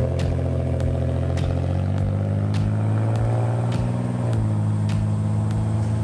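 Car engine running steadily, with a small shift in pitch about four seconds in, and faint ticks about twice a second.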